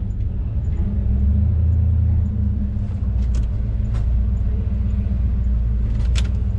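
Datsun 240K race car's straight-six engine idling steadily, with a few short clicks over it.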